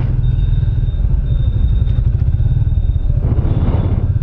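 Motorcycle engine running at low speed in slow traffic, heard from on the bike, a dense steady rumble. A short rush of noise rises and fades about three seconds in.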